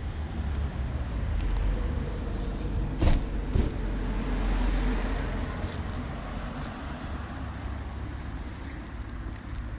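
A car passing on the road, its noise swelling and then fading, with a sharp knock about three seconds in.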